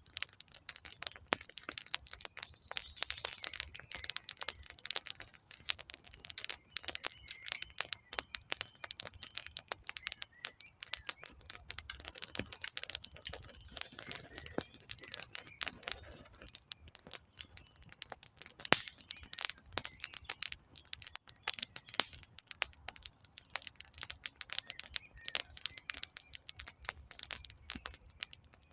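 Wood campfire crackling, with dense, irregular snaps and pops from the burning logs and one louder pop a little past the middle.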